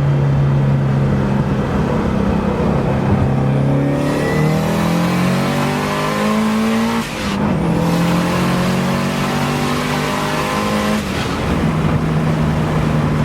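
Car engine accelerating hard, heard from inside the cabin. Its pitch climbs for about three seconds, drops at a gear change about seven seconds in, and climbs again before settling to a steady cruise near the end.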